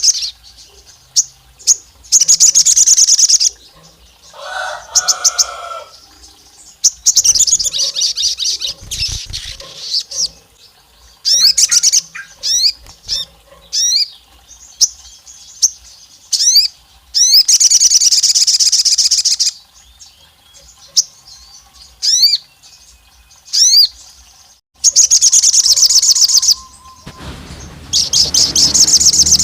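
A sogon singing hard in bursts of fast, high-pitched chattering trills, with short rising whistled notes between the bursts: the excited, aggressive full song of a male sogon.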